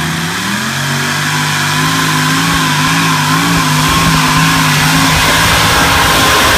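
Truck-pull vehicle's engine revving up about half a second in, then held at high revs with a slightly wavering pitch, growing steadily louder.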